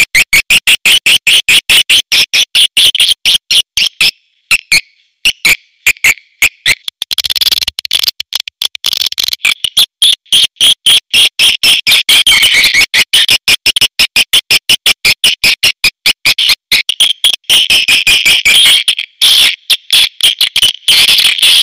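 Recorded calls of edible-nest swiftlets: a rapid, loud chatter of sharp chirps that thins out a few seconds in and then turns dense again. This is a swiftlet call track of the kind played in swiftlet houses to lure the birds in to roost and nest.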